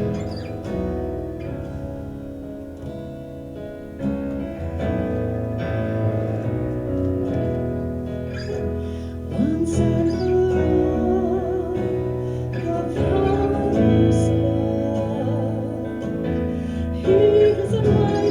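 Worship band playing a contemporary Christian song with guitar accompaniment; a lead vocalist comes in about nine seconds in, holding notes with vibrato.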